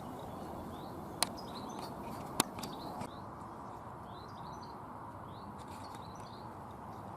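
Small birds chirping over a steady wind-like rush, with two sharp clicks about a second apart.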